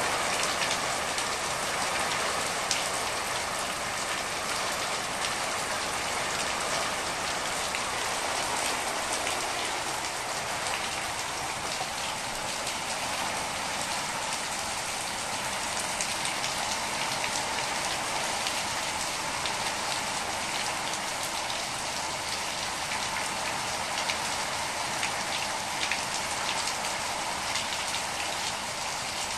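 Heavy rain falling steadily, with sharp ticks of individual drops striking close by.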